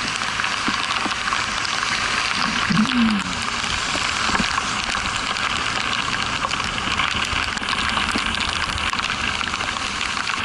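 Steady hiss of rain and wind heard from a motorcycle riding in the rain, with a short, low wavering tone about three seconds in.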